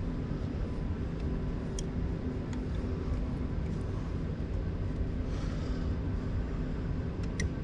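Steady low rumble and hum of running HVAC equipment, with a few faint clicks.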